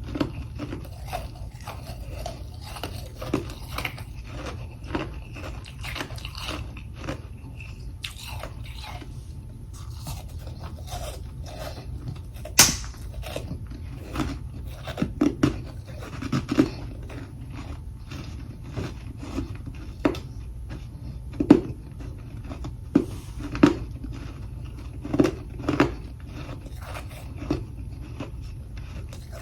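Close-up biting and chewing of humidifier freezer frost: irregular crisp crunches of frozen frost chunks, with one sharp, loud crack about twelve seconds in, over a steady low hum.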